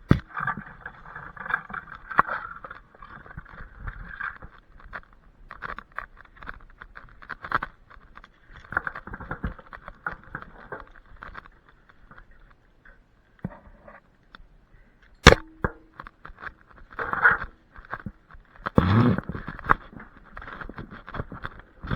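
Irregular scraping and rustling, stopping and starting, with scattered knocks and one sharp crack about fifteen seconds in.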